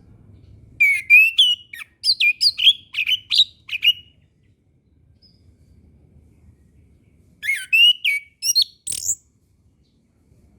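Chestnut-capped thrush (anis kembang) singing two phrases of quick whistled notes that slide up and down in pitch. The first phrase starts about a second in and runs about three seconds; the second, shorter one comes around seven seconds in and ends on a higher note. A faint low hum lies underneath.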